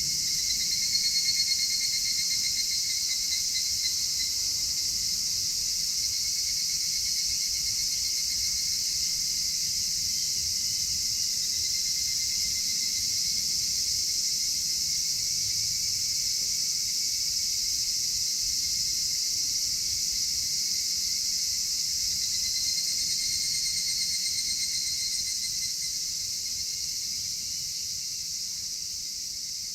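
Chorus of crickets and other insects: a steady high-pitched shrilling, with a lower pulsed trill that comes in for a few seconds at a time, three times. It fades out near the end.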